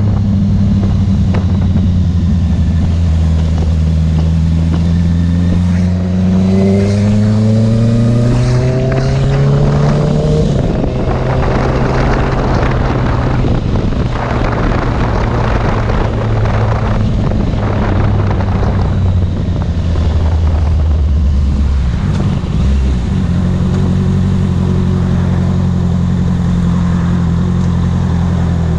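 Sport motorcycle engine pulling with a rising pitch for roughly the first ten seconds, then largely masked by wind rushing over the microphone at speed, and settling into a steady low-speed note for the last several seconds.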